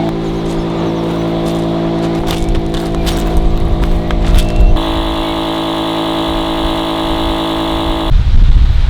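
A vehicle engine running steadily, its pitch shifting suddenly about halfway through and stopping near the end, with a few clicks along the way and a low rumble, likely wind on the microphone, in the last second.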